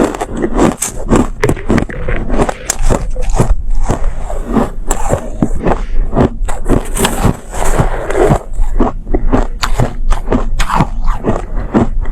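Close-up biting and chewing of refrozen soft ice, a rapid run of loud, crackly crunches.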